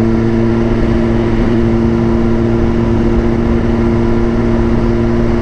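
Suzuki GSX-R motorcycle's inline-four engine running at a steady pitch while cruising, with wind noise over the microphone.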